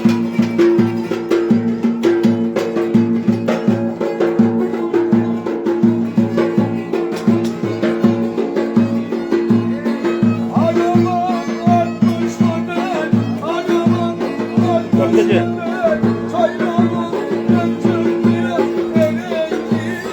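Turkish folk dance tune (oyun havası) played on instruments, with sustained held notes over a steady, fast, pulsing beat; a wavering melody line comes in about halfway through.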